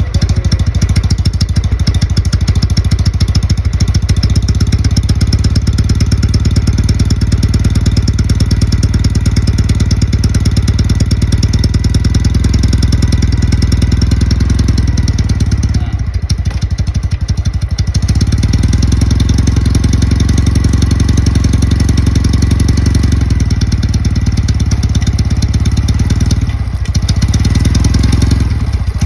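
Kawasaki W650's air-cooled parallel-twin engine running at idle through a POSH aftermarket muffler, a steady even exhaust pulse. The sound briefly drops off about halfway through and again near the end.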